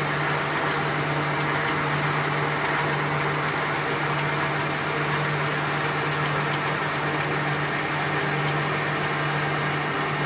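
Steady running noise of a shop machine: a constant low hum with an even whirring hiss over it, holding level throughout.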